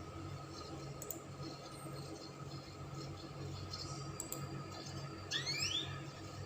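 A pause in a Spanish Timbrado canary's song: a steady low hum with a few faint clicks, then a single quick rising chirp a little over five seconds in.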